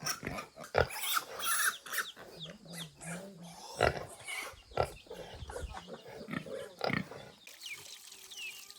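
Farm animal sounds: a low wavering call about two and a half seconds in, amid scattered knocks and clicks, with short high chirps near the end.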